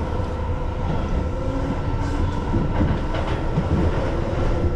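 Keihan Line local train running between stations, heard from inside the car: a steady low rumble of the wheels on the rails with scattered clicks and a faint steady hum.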